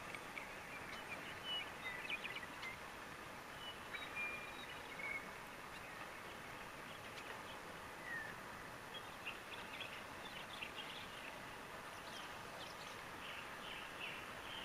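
Faint outdoor quiet with scattered birds chirping and whistling: short high chirps and brief whistled notes, including one downward-slurred note, growing busier in the last few seconds.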